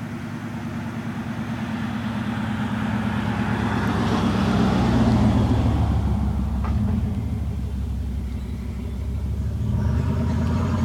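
A car passing on the road, its tyre and engine noise swelling to a peak about halfway through and then fading, over the steady low hum of an idling engine.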